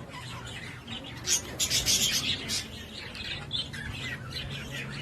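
Birds calling: a run of loud, shrill high-pitched chirps about a second and a half in, then fainter scattered chirps, over a steady low hum.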